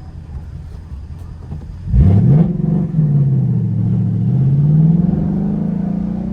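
Ford Mustang GT's 5.0-litre V8 and exhaust: a low rumble, then about two seconds in the engine opens up under hard acceleration. The revs climb quickly, dip, and climb again before holding.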